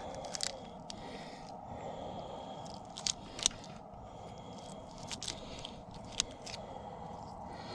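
Scattered scrapes, crunches and sharp clicks of cut bluegill bait being handled and put on a fishing hook, over a steady background hiss.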